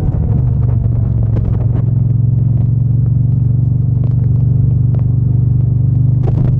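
Triumph Bonneville T120's 1200 cc parallel-twin engine and exhaust running under way, heard from the rider's position. The engine note wavers a little at first, then holds steady from about two seconds in.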